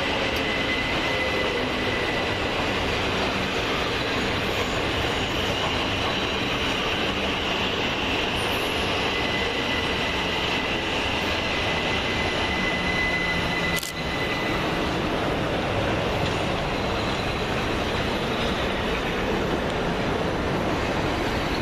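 Electric multiple-unit passenger trains running through the station platforms, a steady rumble of wheels and motors with a thin high-pitched whine or squeal held over it. The whine fades out about fourteen seconds in, close to a single sharp click.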